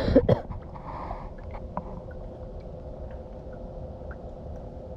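A few knocks right at the start, then a steady low mechanical hum with one faint constant tone.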